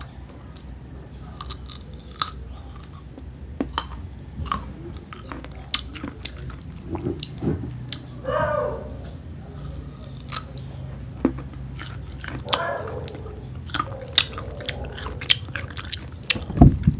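Close-up biting and chewing of raw green mango: crisp crunches of the firm, unripe flesh, repeated many times, with a heavier knock near the end.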